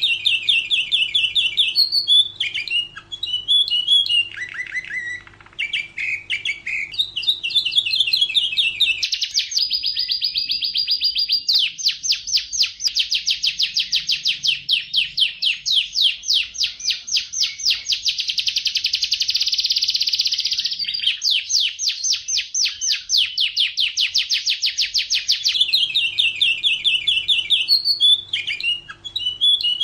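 Domestic canary singing a long, continuous song of rapid trills: runs of quickly repeated high notes, the pattern changing every few seconds, with a faster, denser rolling stretch in the middle.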